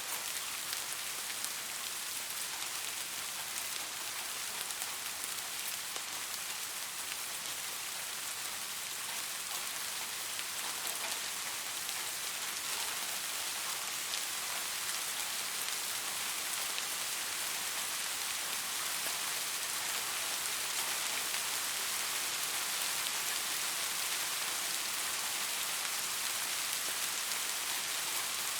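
Steady rain falling, an even hiss of many fine drops pattering on a surface, growing slightly heavier partway through.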